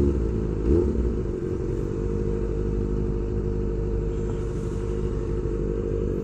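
Kawasaki Ninja ZX-25R's inline-four engine, fitted with an SC Project exhaust, running steadily at low revs in slow traffic, with a brief rise in pitch about a second in.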